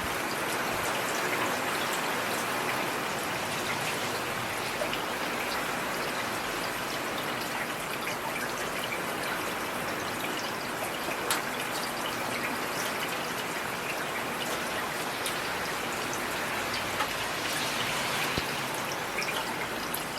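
Heavy rain falling steadily as a continuous hiss, with scattered individual drops ticking now and then.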